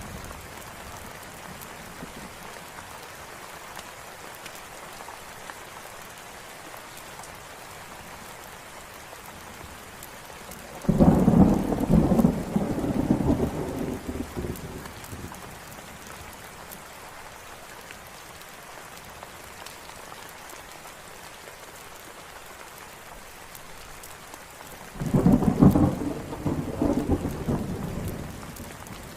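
Steady rain hiss with faint crackling of a campfire, broken twice by a roll of thunder about fourteen seconds apart, each starting suddenly and rumbling away over a few seconds.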